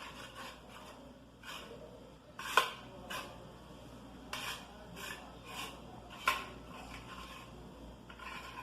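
A kitchen utensil scraping and clinking against a dish as tomato sauce is spread, in short, irregular strokes. Two sharper clinks stand out, one about two and a half seconds in and one about six seconds in.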